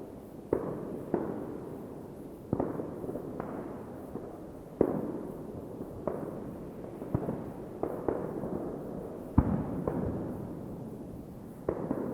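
Fireworks exploding, about a dozen separate bangs at uneven intervals, each trailing off in a long rolling echo. The strongest bangs come about five seconds in and again about nine seconds in.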